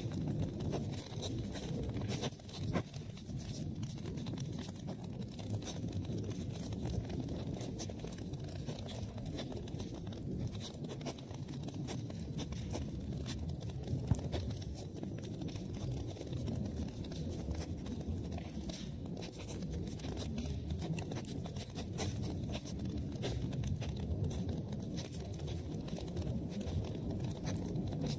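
Wood fire burning in a fireplace: a steady low rumble of flames with frequent small crackles throughout. Two louder pops stand out, one near the start and one about halfway through.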